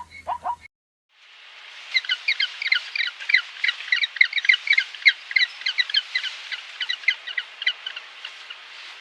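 A flock of small birds chirping, rapid overlapping high chirps that start after a brief cut and thin out near the end, over a steady hiss. The first moment is the tail of a dog's short repeated yelps.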